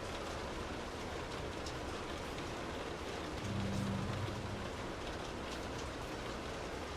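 Steady rain heard from indoors, pattering on a surface with scattered individual drops, and a brief low rumble about halfway through.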